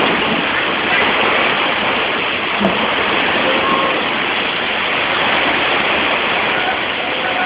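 Heavy rain pouring down in strong wind, a dense steady hiss, with one brief sharp knock about two and a half seconds in.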